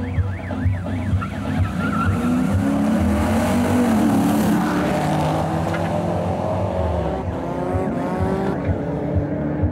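Two 2011 Chevrolet Camaro SS V8s at a drag-race start, revving and then launching hard with tyre squeal about four seconds in. Their engine notes rise repeatedly as they accelerate away near the end.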